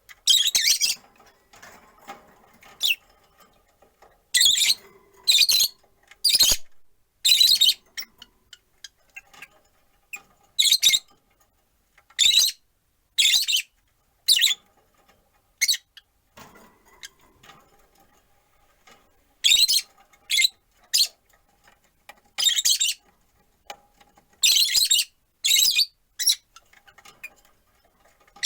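Rosy-faced lovebirds giving short, shrill, high-pitched calls, one after another in irregular clusters with short pauses between.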